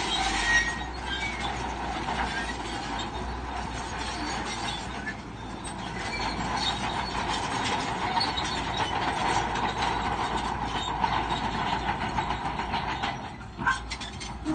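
Shantui crawler bulldozer working, its engine running under the steady clatter of its steel tracks, with a brief lull and a couple of sharp knocks near the end.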